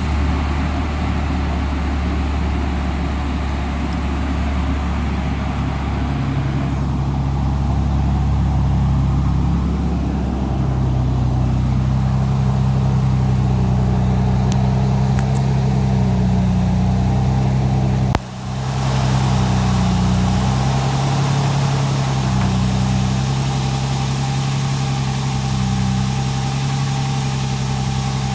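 Toyota 4Runner's 4.0 V6 idling through a Borla cat-back dual exhaust, a steady low drone just after starting. About eighteen seconds in the sound drops out briefly and comes back.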